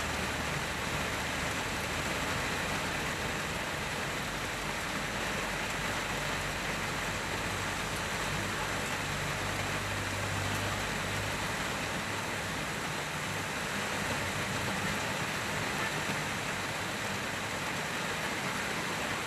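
Rain falling on a car's windscreen, heard from inside the car as a steady, even patter and hiss of drops on the glass, with a faint low hum underneath.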